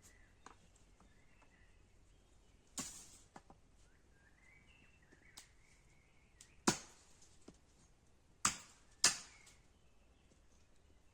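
Four sharp knocks at uneven intervals, the last two close together, over faint bird chirps.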